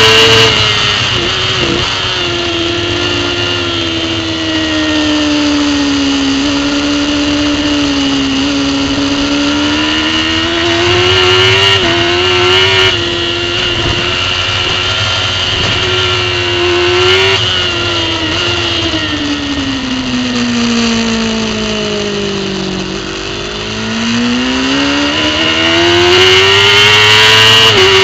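Racing superbike engine heard from an onboard camera, running hard under race load. Engine pitch drops sharply in steps near the start as gears change, stays high through the middle, sinks slowly to a low about three-quarters through as the bike slows, then climbs steadily again under acceleration.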